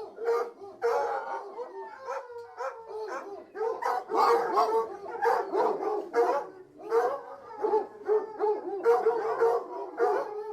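A pack of hunting hounds in full cry, baying, howling and barking with many voices overlapping without a break.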